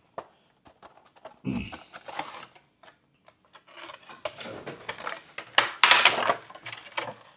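Cardboard and plastic packaging of a boxed Funko Pop vinyl figure being handled and opened: crackly rustling with many small clicks, in bouts, loudest about six seconds in.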